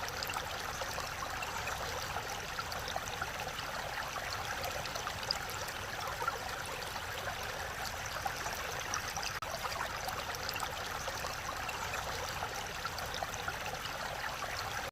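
Mountain stream rushing over rocks in a steady, even flow of water.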